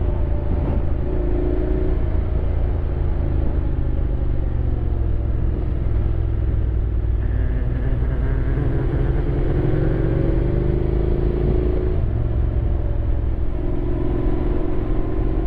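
Honda X-ADV 750 parallel-twin engine on the move, its pitch rising and falling as the rider works through the curves, over a steady low rumble.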